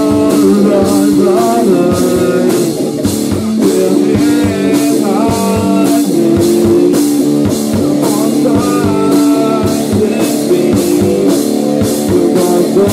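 Rock band playing: electric guitar over a drum kit keeping a fast, steady cymbal beat.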